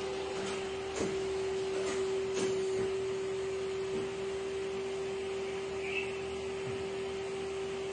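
Tube end-closing spinning machine running with a steady hum over a faint hiss, and a few light clicks in the first few seconds.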